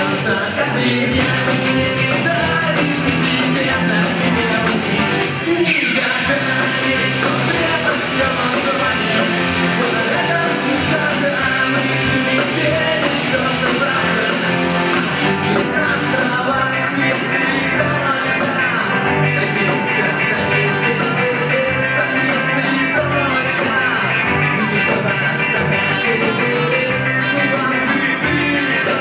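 Rock band playing live: electric guitar and drums with a steady beat, with a voice singing over it.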